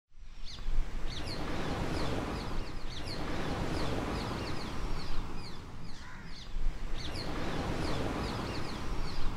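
Birds chirping: many short, falling chirps repeating several times a second over a steady background rumble.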